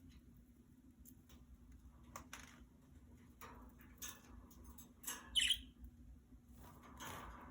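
Budgies moving about in their cage: scattered small clicks and scratches, with a short, louder chirp about five seconds in.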